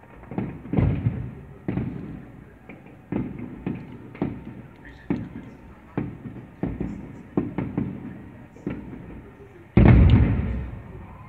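Aerial fireworks shells bursting: a steady run of booms and cracks about every half second to a second, with one much louder bang near the end that rumbles away over a second or so.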